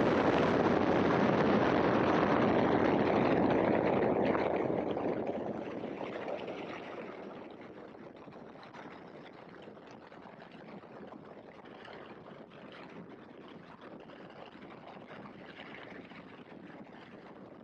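Engine and wind noise in the open cockpit of a Great Lakes biplane: a loud, steady rush for about four seconds, then falling off over the next few seconds to a lower, steady level.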